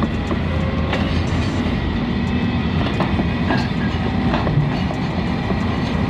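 Heavy machinery running with a steady low rumble and scattered metallic clanks and knocks, typical of a tracked excavator's diesel engine and crawler tracks.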